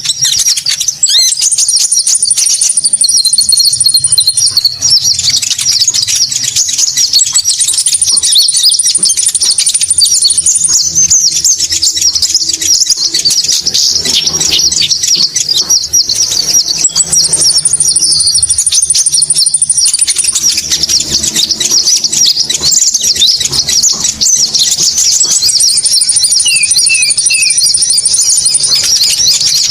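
Konin bird-call recording played as a lure: a dense, continuous stream of high chirps, with a very high, thin trill breaking in for a few seconds four times.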